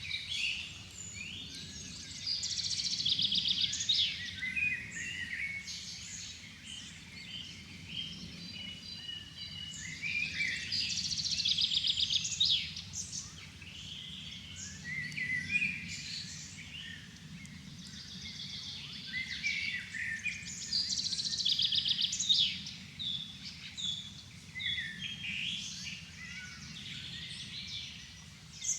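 Songbirds in a forest dusk chorus: one bird repeats a song phrase of about two seconds, ending in a fast trill, roughly every nine seconds, while other birds call between its songs. A low steady rumble runs underneath.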